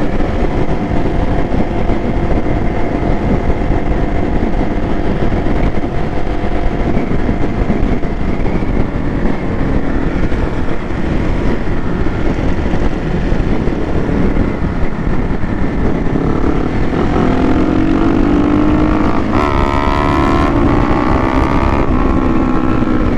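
Motorcycle riding at speed in a group, with heavy wind rumble on the microphone over the engine drone. In the last several seconds a motorcycle engine comes up clearly, its pitch rising repeatedly as it revs up.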